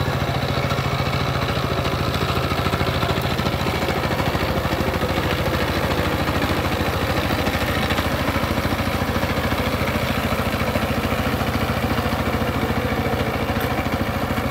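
Power tiller's single-cylinder diesel engine running steadily as it ploughs through deep paddy mud, with a rapid, even firing beat.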